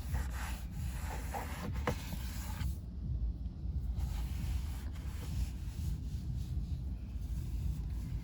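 Wind buffeting the microphone in a steady low rumble. Over it, for the first two to three seconds, come rubbing and scraping sounds with a few clicks as sand is cleaned out of a car's interior.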